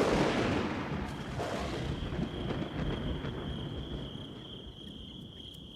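A rumble of thunder dies away slowly, and about two seconds in a steady high-pitched insect trill, like a cricket's, comes in and carries on.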